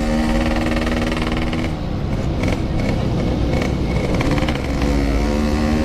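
Yamaha RX King's two-stroke 135cc single-cylinder engine running on the road at a steady pitch. It eases off and turns rougher for a few seconds in the middle, then pulls again with the pitch slowly rising near the end.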